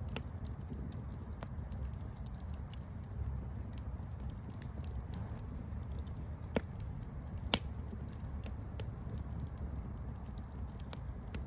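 Campfire burning with a steady low rumble and a scatter of small wood crackles, with two sharper pops about a second apart past the middle.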